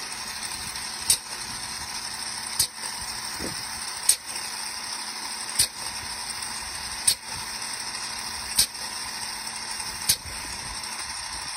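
Drilling rig automatic driller clicking, a sharp mechanical click about every one and a half seconds over a steady hiss, as it feeds off the drill line.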